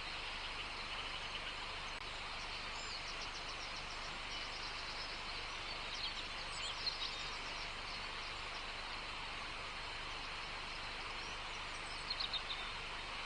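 Small birds chirping in short runs of quick high notes, about three seconds in, around the middle and again near the end, over a steady background hiss of outdoor ambience.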